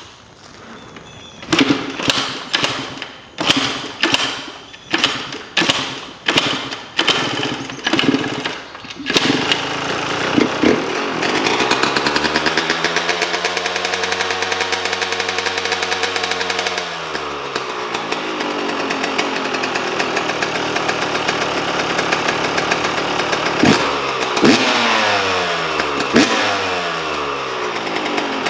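2021 Yamaha YZ125 two-stroke engine with a new FMF exhaust pipe being kick-started: a string of short bursts as it fires and dies, then it catches about nine seconds in and runs, its revs dropping and rising, with several throttle blips near the end.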